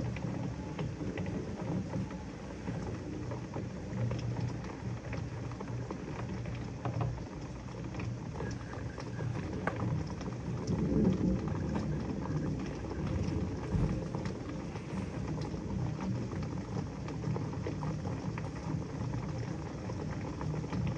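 Steady heavy rain falling on trees, lawn and street during a thunderstorm. A low rumble swells about halfway through.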